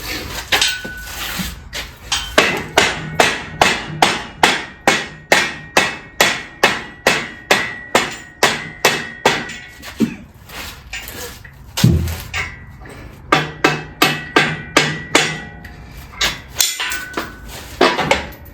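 A hammer striking metal over and over, about three blows a second, with a faint metallic ring: a long run of blows, a pause, then a shorter run.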